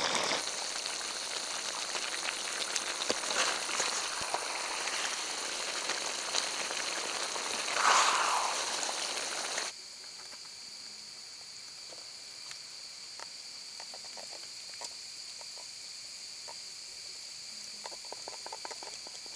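Chicken wings in a wok of sauce over a wood fire, bubbling and sizzling with a steady hiss, with a louder surge about eight seconds in. Then it cuts off abruptly to a steady high insect drone, with a few soft clicks near the end as the wings are tipped from the wok onto a tray.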